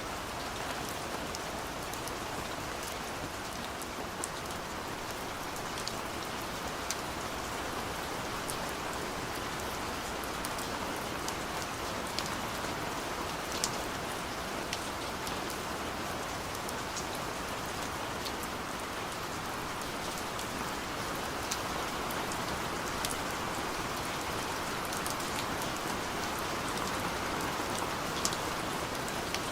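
Steady rain falling on a surface, an even hiss with many separate drops ticking sharply on top.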